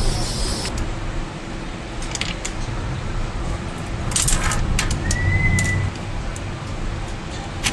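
A few sharp metallic clinks and taps of tools and parts being handled, strongest about four seconds in and again near the end, over a steady low rumble.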